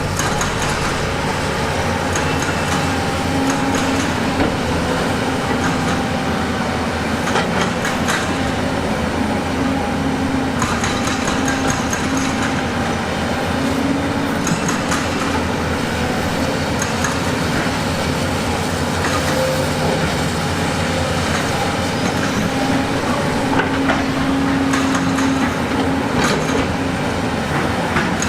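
Sunward SW365E excavator's diesel engine running steadily under load, with frequent sharp metallic clanks and knocks that come in clusters.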